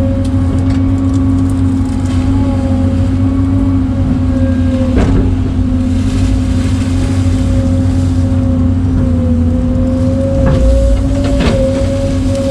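Excavator's diesel engine running steadily at high revs under working load, its pitch sagging slightly about nine seconds in. A few sharp knocks cut through it, around five seconds in and twice near the end.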